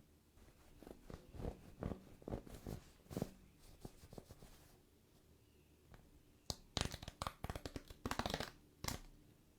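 Hands opening a toy surprise capsule and its wrappers: scattered light clicks and rustles of plastic packaging, then a dense stretch of crinkling and tearing near the end.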